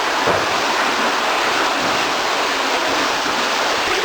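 Steady rush of flowing water from a stream inside a cave.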